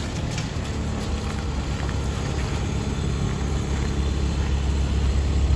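Big diesel-fired forced-air heater running: a steady low hum with a rushing blast of air over it, growing a little louder near the end. It is blowing heat to warm up a piece of equipment for a cold start.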